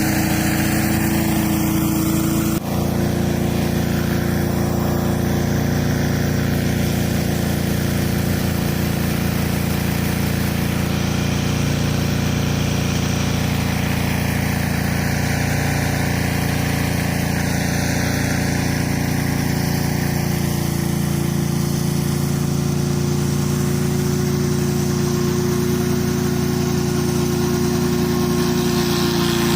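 Gas-engine pressure washer running steadily under a constant hiss of high-pressure water spray on concrete. A brief drop in level about two and a half seconds in, after which the engine note sits a little higher.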